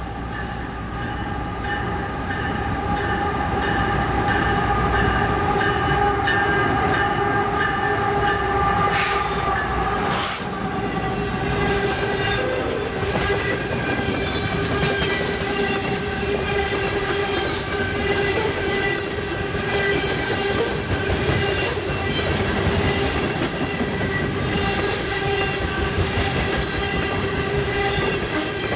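CSX intermodal freight train led by a GE ET44AH diesel locomotive passing, its multi-chime air horn sounding steadily over the rumble of the train. The sound grows louder over the first few seconds. Two sharp clanks come about a third of the way in.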